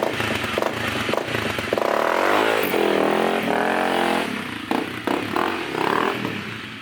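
Dual-sport motorcycle engine running just after a restart. It revs up and down about two seconds in, with some clatter and scraping.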